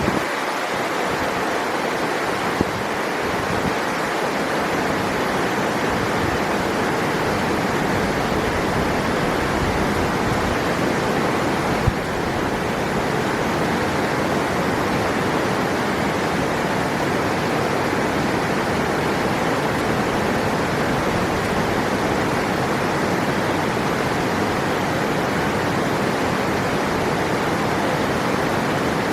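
River water rushing and splashing over rocks in a steady, unbroken roar, with a faint knock or splash once or twice.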